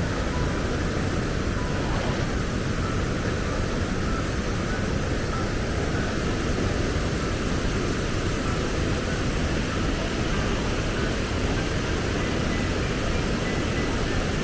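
Waterfall rushing in a steady, even roar, with a few faint short high notes scattered over it.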